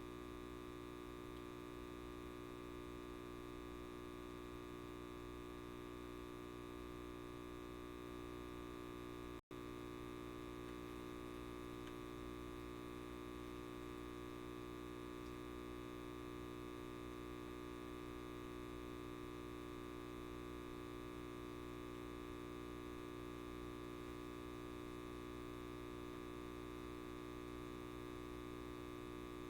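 Steady electrical buzz of a light bulb, a hum made of many fixed tones that does not change, cutting out for an instant about nine seconds in.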